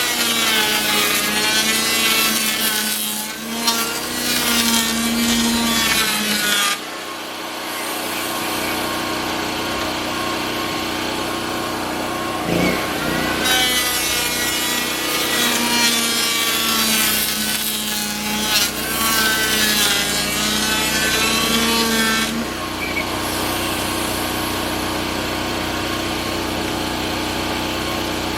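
Table saw ripping rough-sawn lumber along its length, twice: a wavering whine under load for the first several seconds, and again from about halfway to near three-quarters through. Between the cuts and afterwards the saw runs free with a steady hum.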